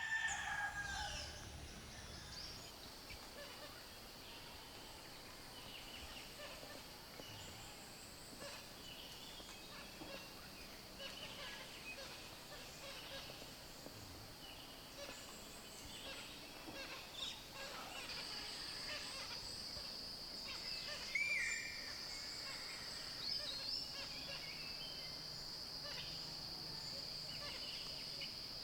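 Wild birds calling now and then, with one clearer call about two-thirds of the way in, over a steady high-pitched buzz that grows stronger after the middle. A rooster crow is fading out right at the start.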